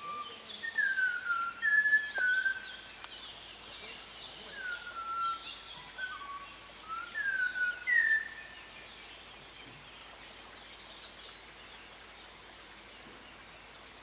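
A bird giving clear, human-like whistles that don't hold a steady note: a string of short notes, most sliding down in pitch, over the first eight seconds or so, then it stops. Other small birds chirp faintly and high behind it throughout.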